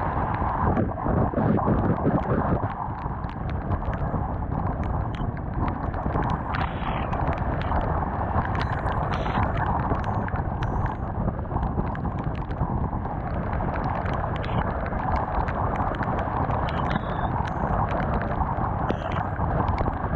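Honda CBR250R motorcycle riding on a wet road: wind noise on the camera mixed with the engine and tyres, with many small ticks throughout.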